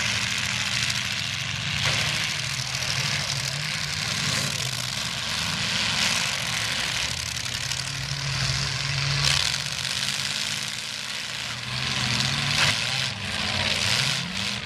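Several demolition derby cars' engines running and revving, rising and falling in pitch, over a steady hiss, with a few sharp bangs of cars hitting each other.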